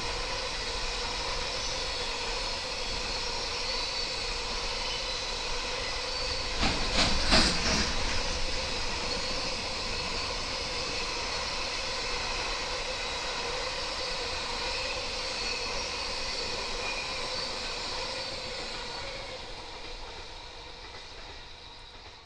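Freight train rolling past on the rails behind an electric locomotive: a steady rolling noise with faint ringing tones, a louder clatter of wheel knocks about seven seconds in, then fading away near the end.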